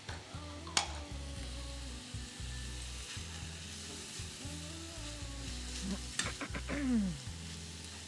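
Diced onion and bacon sizzling in a frying pan while being stirred with a spatula, with a few sharp clicks of the spatula against the pan about a second in and again around six seconds.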